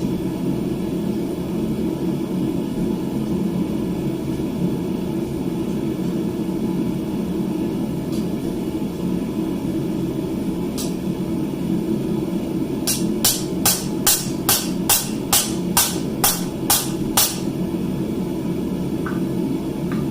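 Steady low rush of the forge running. In the second half, a run of about ten sharp hammer blows on hot steel at the anvil comes just over two a second, with a single lighter tap a few seconds before them.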